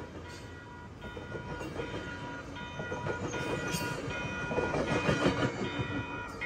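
Bilevel passenger cars of a commuter train rolling past close by: a steady rumble with the clatter of wheels over the rails, growing louder about five seconds in as the last car goes by. Over it a grade-crossing warning bell rings on steadily.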